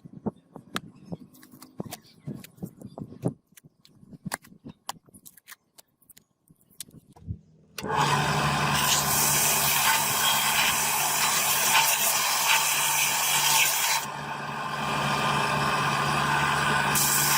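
Scattered light taps and knocks of hand work, then about eight seconds in an electric power tool starts suddenly and runs steadily with a low hum under a loud hiss. Its hiss thins briefly near the end, then comes back.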